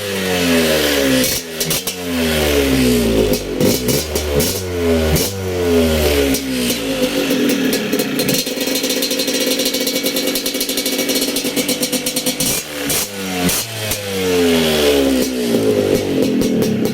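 Yamaha DT125 motorcycle's stock single-cylinder two-stroke engine being revved in repeated throttle blips, each rising and dropping back. Partway through it is held at steadier, higher revs for a few seconds, then blipped again near the end.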